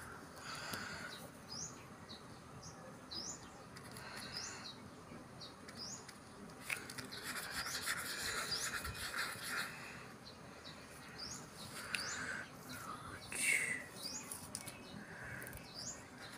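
A bird chirping over and over, each chirp a short rising note about a second apart, with the scratchy rubbing of a paintbrush stirring paint in a plastic palette well, heaviest about halfway through.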